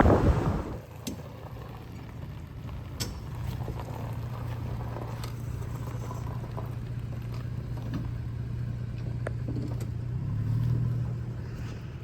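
Truck engine idling with a steady low hum after wind noise dies away in the first second; the hum swells briefly near the end.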